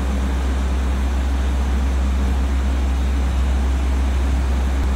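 Long Island Rail Road bilevel train standing at the platform, idling with a steady low hum and an even rumble that does not change.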